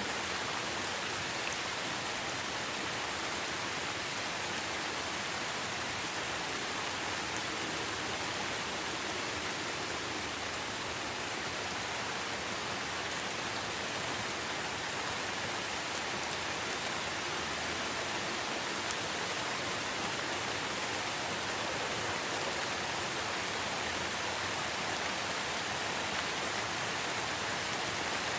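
Steady rain: an even hiss that holds without a break.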